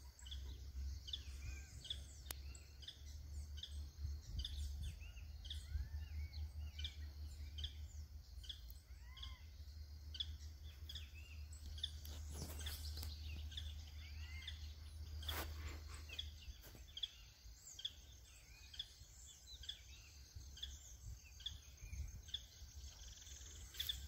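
Faint birdsong: short, high chirps repeating about twice a second, with a low rumble under them that fades out about two-thirds of the way through.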